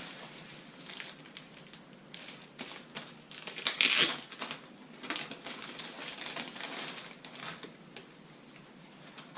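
Irregular crinkling and rustling of plastic being handled during laptop screen work, with a louder burst just before four seconds in.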